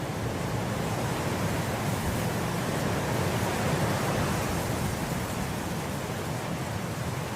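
Wind blowing through grass, a steady rushing hiss that swells into a gentle gust about halfway through and eases off again.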